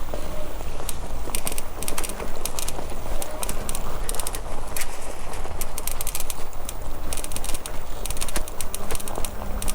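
Bicycle rolling along a nature path: a steady low rumble of tyres and wind on the microphone, with frequent irregular crackling clicks.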